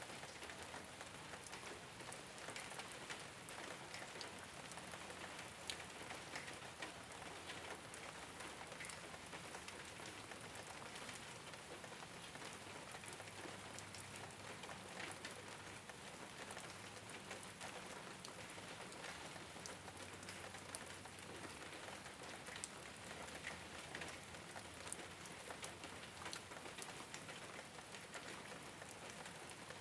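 Steady rain falling on a rooftop: a soft, even hiss with many individual drops ticking sharply through it.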